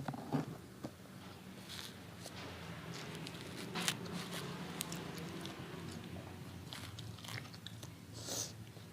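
A person eating close to the microphone: biting and chewing crispy smashed fried chicken (ayam geprek), with scattered short crunches and mouth clicks. A faint low steady hum runs underneath.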